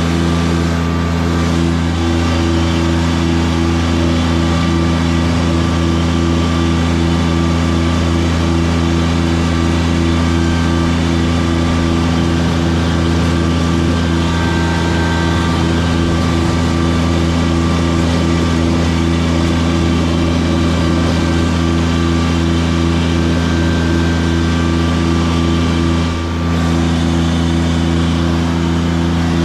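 Tractor engine running steadily while plowing snow with a front blade.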